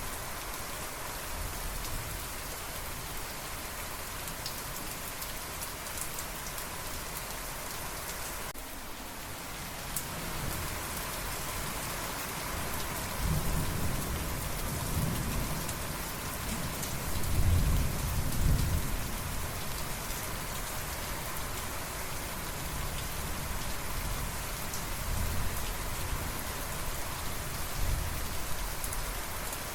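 Steady rain falling in a dense hiss, with a roll of thunder rumbling low from about halfway through, loudest a few seconds later, then fading to lighter rumbles near the end.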